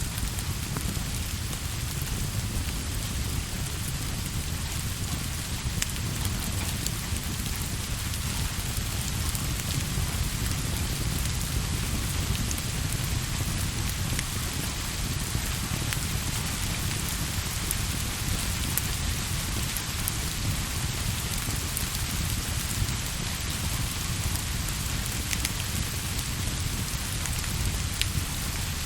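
Steady rain, a continuous hiss over a low rumble, with scattered sharp ticks.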